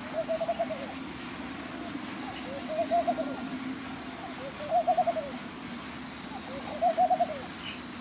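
A bird calling with a soft, rippling coo that rises and falls in pitch, repeated four times about every two seconds, over a steady high hiss.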